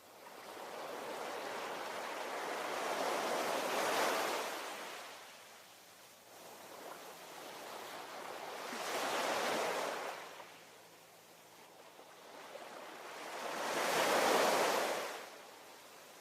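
Ocean surf: three waves roll in about five seconds apart, each swelling to a peak and then fading.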